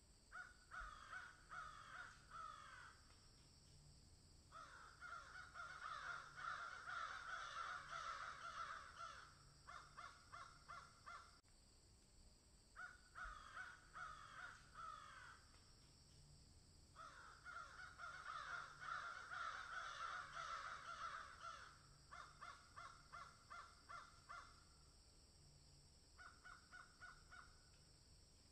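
Faint bird calls in repeated bouts. Stretches of dense calling alternate with runs of separate calls at about four a second.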